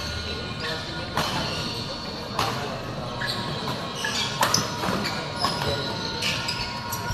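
A series of sharp impacts at irregular intervals, about one a second, in a large indoor hall, over a steady murmur of crowd noise.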